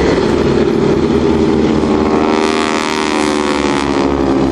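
Radial engine of a Boeing Stearman biplane running at display power, its pitch bending about halfway through as the aircraft passes.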